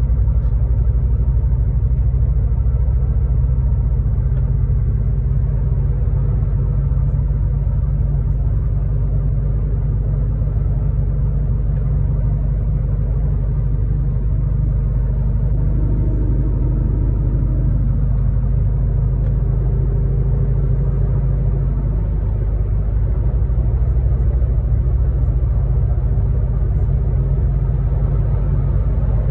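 Steady low rumble of a truck's engine and the road while driving.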